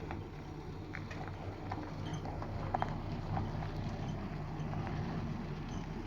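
A low, steady engine hum with scattered light clicks and knocks.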